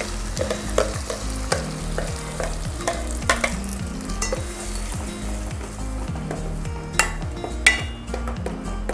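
Ground greens paste sizzling in a steel pot of fried onions while a steel spoon stirs and scrapes through it. Sharp clicks of the spoon against the pot come twice, near the end.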